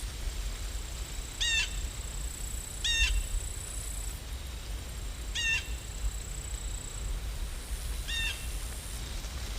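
A bird calling in short repeated chirps, four calls a couple of seconds apart, over a steady low outdoor rumble.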